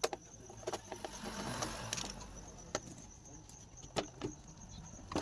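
Scattered knocks and clicks, about seven, irregularly spaced, with a soft rustling noise between about one and two and a half seconds in; no engine is running.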